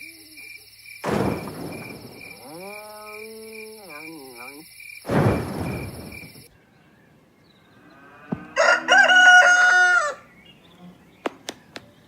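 A rooster crowing twice, the second crow loud and drawn out, over a steady high electronic whine that stops about six seconds in, with two short rushing noises; a few sharp clicks near the end.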